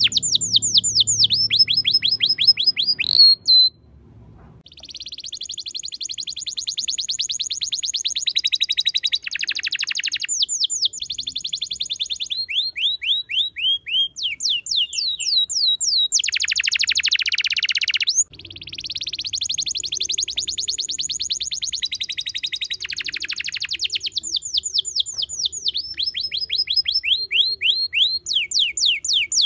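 A songbird singing a long run of rapid trills, switching from one trill type to another every second or two, with a brief pause about four seconds in and another about eighteen seconds in.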